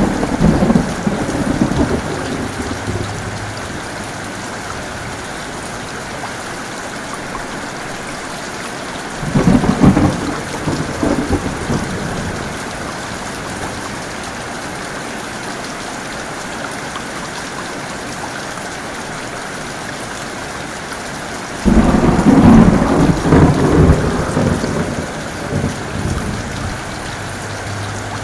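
Heavy rain falling steadily, with thunder: a rumble dying away in the first few seconds, a sharp clap rolling off about nine seconds in, and a longer rolling peal from about twenty-two seconds.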